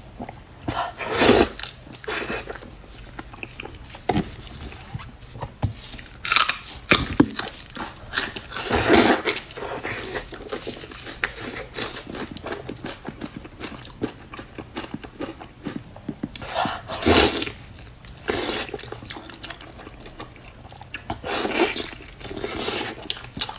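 Close-miked eating: a person biting and chewing meat, with many small mouth clicks and smacks and a few louder bursts every few seconds.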